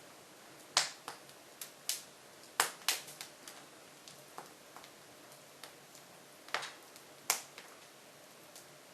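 Hardwood logs burning in the open firebox of a wood stove, crackling with sharp, irregular pops and a few louder snaps.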